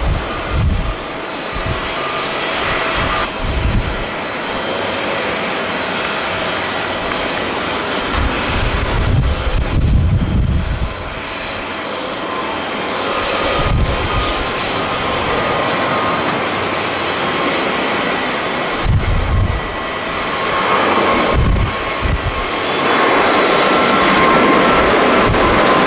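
Jet airliner engines running, a loud steady rush with a faint whine in it that swells near the end. Gusts of wind buffet the microphone now and then.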